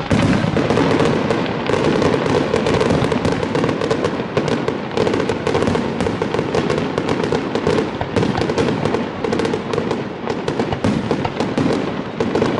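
Fireworks display: a dense, continuous barrage of rapid bangs and crackling that starts abruptly and keeps up without a break.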